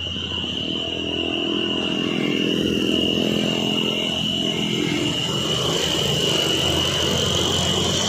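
Diesel engine of a loaded Fuso dump truck running under load on a steep climb, growing louder over the first few seconds, with a steady high-pitched drone over it.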